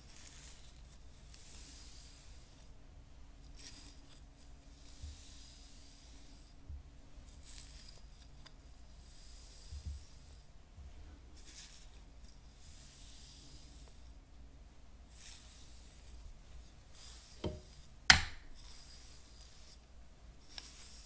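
Hairbrush strokes: repeated soft, bristly rubbing and scratching. Near the end there is a small tap, then one sharp, loud tap.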